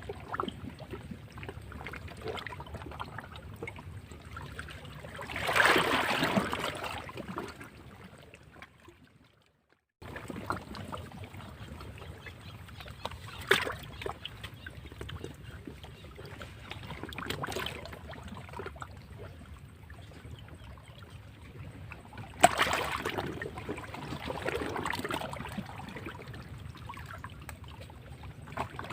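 Sea waves washing against rocks, with two louder surges, one about six seconds in and one about twenty-three seconds in, and a few sharp splashes. Near ten seconds the sound fades out to silence for about a second, then picks up again.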